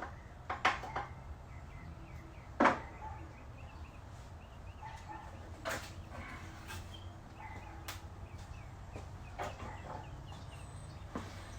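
Occasional sharp knocks and clanks from setting up a car's factory jack, the loudest about two and a half seconds in, over a low steady rumble. Faint short bird chirps repeat in the background.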